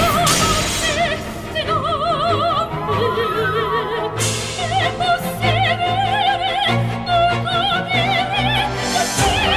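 Operatic singing: a high voice with wide vibrato holding long notes over orchestral accompaniment.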